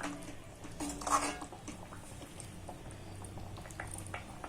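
A spoon stirring a simmering banana flower curry in a metal pan. It knocks against the pan with a ringing clink at the start and again about a second in, with a few lighter taps after.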